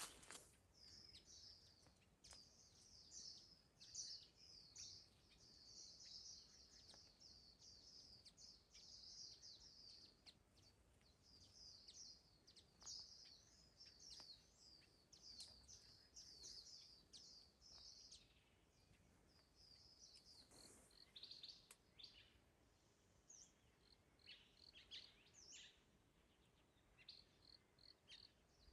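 Small birds chirping: quick, high calls in a dense run for most of the first two-thirds, then thinner and more scattered.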